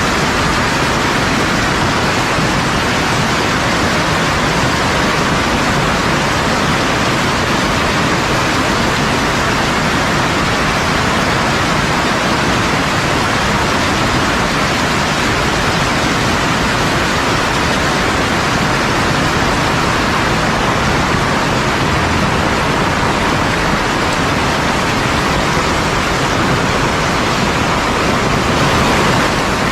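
Heavy rain pouring down, a loud, dense and even hiss that holds steady throughout.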